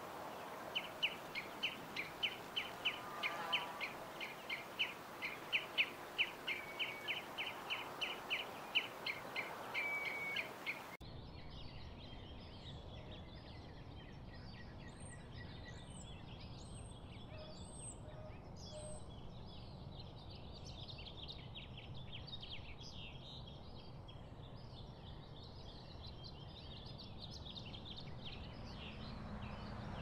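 A bird calling in a fast run of evenly repeated notes, about three a second, for roughly the first ten seconds. It then cuts abruptly to a dense chorus of many birds chirping and whistling over a low steady background noise.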